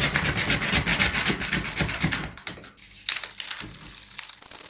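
A honeycomb evaporative cooling pad being cut with a blade: rapid, even cutting strokes for about two seconds, then a few quieter, scattered strokes.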